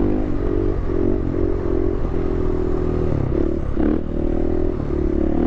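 Dirt bike engine running under throttle at a fairly steady pitch, with brief dips about three and four seconds in, as the rider holds a slow wheelie.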